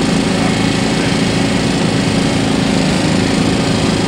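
An engine running steadily at a constant speed, giving an even, unchanging hum.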